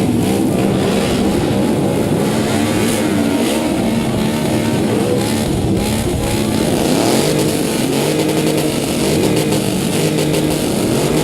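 Several motorcycle engines running together, their pitches rising and falling as they are revved.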